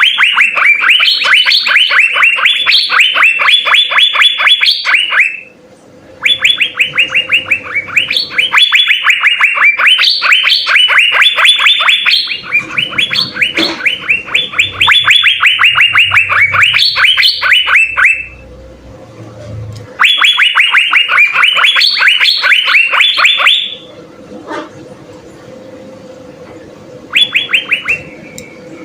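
Asian fairy-bluebird (cucak biru) singing at full pitch: long phrases of rapid, repeated short notes, about five a second, each phrase lasting several seconds with brief pauses between.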